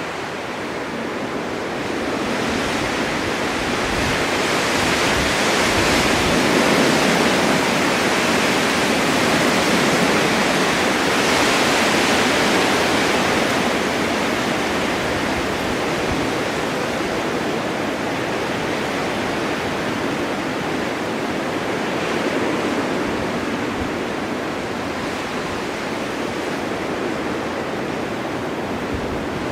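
Snowstorm wind blowing as a steady rushing noise, swelling in gusts for several seconds and easing off again.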